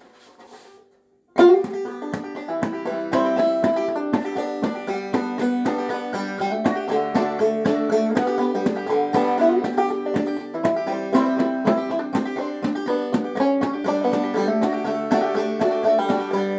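Banjo played clawhammer style: after a brief quiet start, the instrumental intro of a tune begins about a second and a half in, with a steady, driving run of plucked notes.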